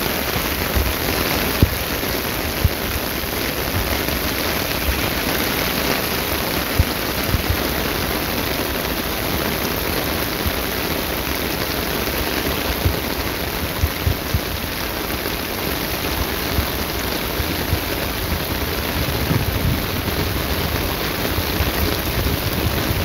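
Torrential downpour pelting flooded asphalt and parked cars, a loud, steady hiss of rain, with scattered brief low thumps.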